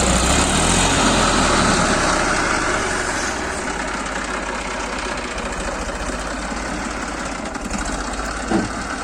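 Tractor engine running steadily, dropping a little in level about three seconds in, with a brief sharp sound near the end.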